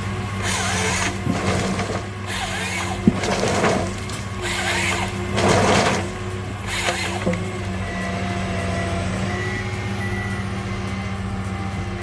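Heavy diesel logging machine running steadily, with a series of short hissing bursts about once a second for the first seven seconds, then a steadier stretch.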